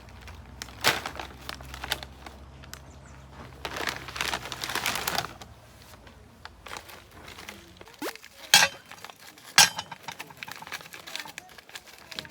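Handling noise: rustling and crinkling, a longer stretch of it a few seconds in, with scattered sharp clicks and knocks, two louder ones past the middle.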